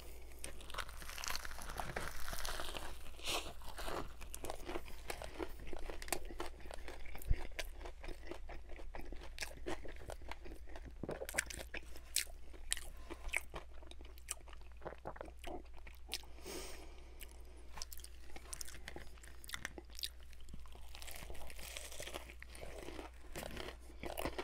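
Close-up biting and chewing of a crispy fried chicken sandwich, a homemade copy of the Popeyes sandwich in a toasted bun with pickles. The battered chicken crust crunches in many short, sharp crackles as it is chewed.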